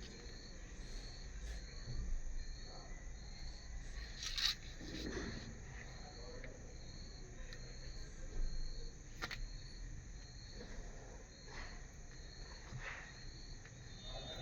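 A cricket chirping steadily, a short high chirp repeated about one and a half times a second, with a few sharp clicks in between.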